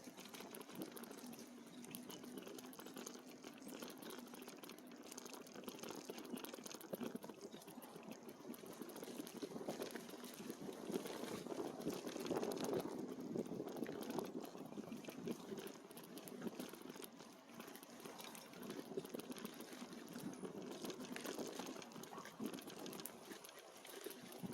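E-bike tyres rolling over a rough dirt trail, a continuous uneven crackling and rattling.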